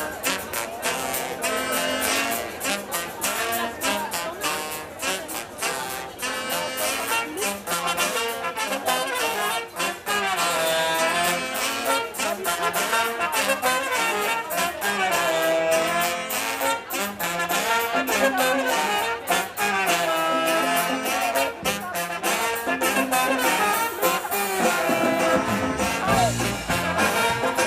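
Live band playing an upbeat instrumental, a brass section of trumpet and trombone over a steady, fast drum beat; a deep bass line comes in near the end.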